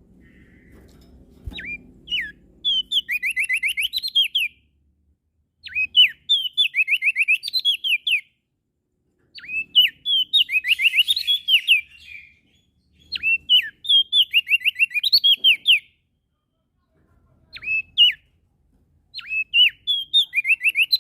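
A small songbird sings loud, repeated phrases. Each phrase opens with a sharp rising note and runs into a fast series of downward-slurred notes, about two seconds long, with short pauses between phrases.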